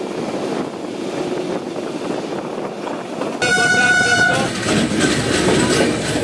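Steady running rumble of a train heard from its open doorway. About halfway through, a train horn sounds for about a second, followed by a louder rush and clatter as another train passes close by on the next track.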